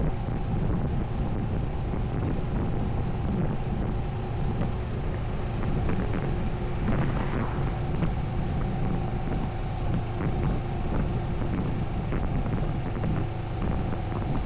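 Moto Morini 6½ Scrambler's parallel-twin engine running at a steady cruise, with wind buffeting the microphone.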